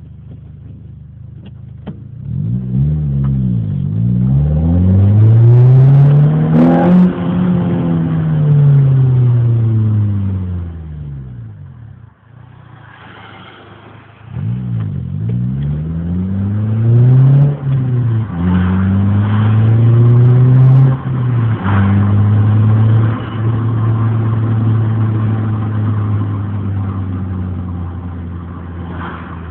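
Renault Clio with an aftermarket exhaust, the engine revving up hard and falling back, then, after a short lull, pulling up again with sudden breaks in pitch like gear changes before settling to a steadier drone.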